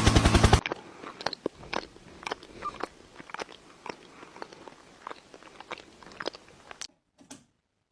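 A loud, dense noise cuts off abruptly about half a second in. It is followed by chewing: a string of irregular sharp crunches, two or three a second, as something hard is bitten and crunched, stopping near the end.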